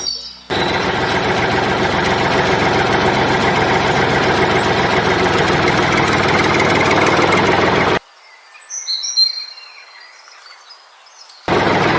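A steady engine-like motor noise running loud, cut off abruptly about eight seconds in. A few seconds of a bird chirping follow, then the motor noise returns just as suddenly.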